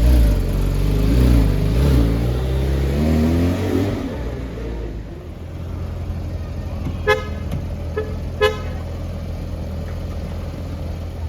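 A car engine revving, its pitch climbing and falling over the first few seconds, then a steady low rumble of traffic. Three short car horn toots come near the end.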